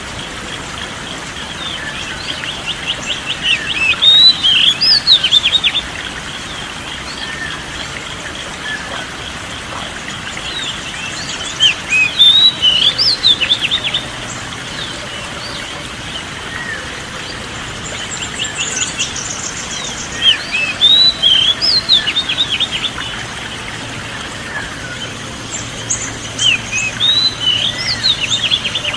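A songbird sings in four bouts a few seconds apart, each a quick run of repeated chirps rising into sweeping, whistled notes, over a steady background hiss.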